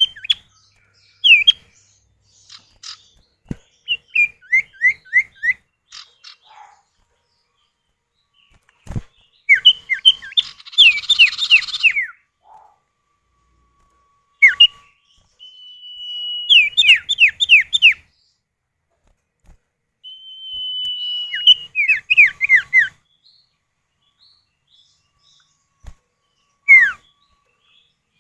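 Common iora (sirtu, cipow) calls answering back and forth. There are runs of three to six quick down-slurred whistled notes, and twice a long drawn-out steady whistle runs straight into a string of falling notes, with short pauses between phrases.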